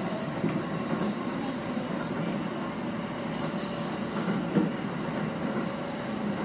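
JR East E217 series electric train running along the rails, heard from inside its cab at the coupled end: a steady rumble of wheels on track, with brief high squeals from the wheels a few times and a single knock about four and a half seconds in.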